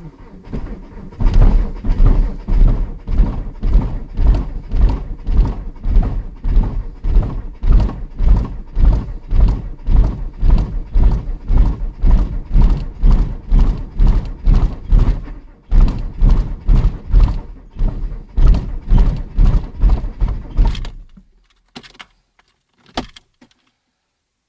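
Skoda Felicia 1.9D four-cylinder diesel being cranked on the starter in −15 °C cold, turning over with slow, laboured, rhythmic pulses about two or three a second. The cranking stops after about 20 seconds, followed by a couple of short knocks.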